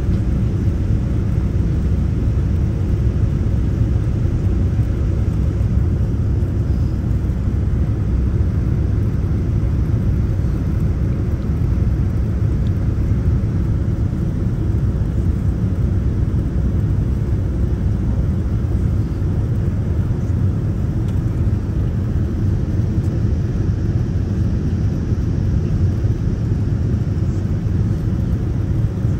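Steady low rumble of a jet airliner heard from inside the cabin, engine and airflow noise during the descent to landing, with no change in pitch or level.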